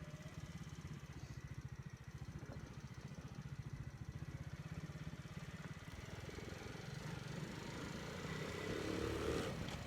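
Forte Alpha 125 cc single-cylinder four-stroke motorcycle engine running with a steady, fast pulse, getting gradually louder over the last few seconds.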